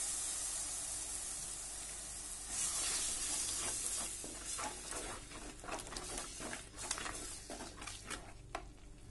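Ground onion-tomato paste sizzling in hot oil and spices in a pan, the sizzle fading, then flaring again about two and a half seconds in as it is stirred with a wooden spatula. Through the second half, short scraping strokes of the wooden spatula against the pan.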